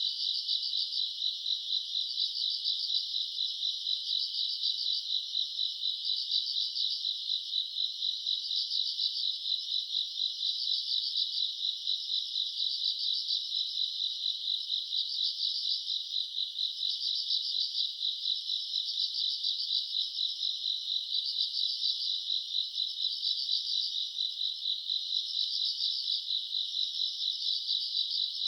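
Chorus of grass insects chirping: a continuous high trill, with a second pulsing call that swells about every two seconds.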